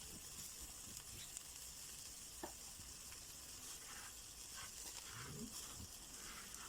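Faint steady sizzling of food grilling over a wood fire, with a few small crackles and pops.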